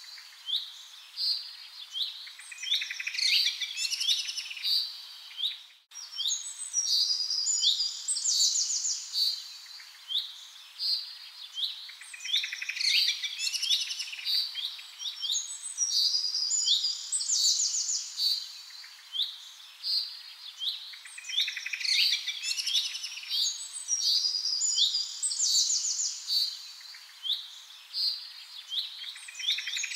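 Birds chirping and calling in rapid high chirps. The same chirping passage repeats about every ten seconds, as in a looped background track, and cuts out briefly about six seconds in.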